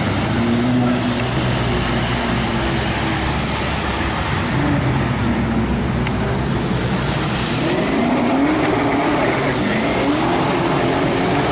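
Car engine running, then revved several times in the second half, its pitch rising and falling with each rev, over steady background noise.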